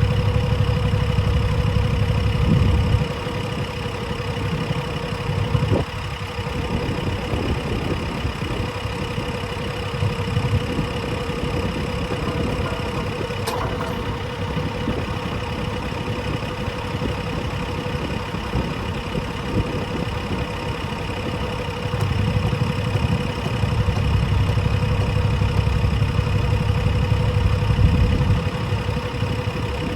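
A machine engine running steadily with a constant whine. The low rumble gets heavier and louder for the first few seconds and again for several seconds near the end, as if under load.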